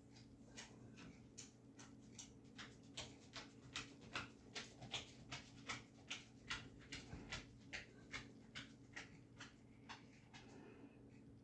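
Thin synthetic paintbrush dabbing and stroking gouache onto paper in short, light strokes, about two to three a second, with a faint steady hum underneath.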